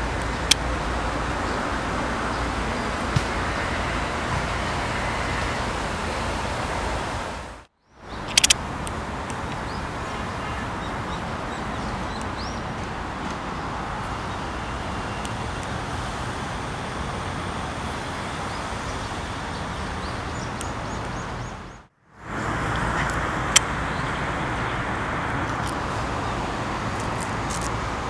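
Steady outdoor background noise, like distant traffic and air, with a few faint sharp clicks; it cuts out briefly twice, at about eight and twenty-two seconds in.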